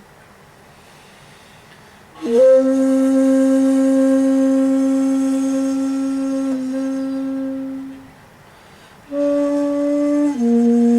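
Solo shakuhachi playing in komuso style: after a pause for breath, one long held note swells in and fades away, then after another short pause a brief higher note drops into a lower held note.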